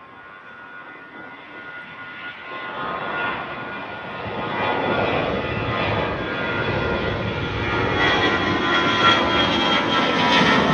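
Jet airliner climbing out after takeoff, its engines growing steadily louder as it approaches overhead, with a steady whine from the engine fans over the jet noise.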